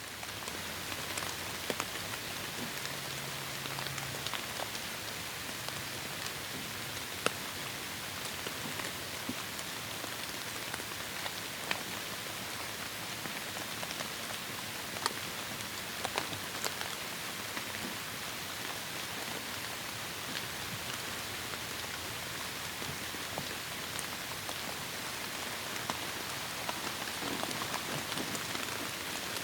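Heavy rain falling steadily in a forest: a dense, even hiss with scattered sharper drop hits standing out here and there.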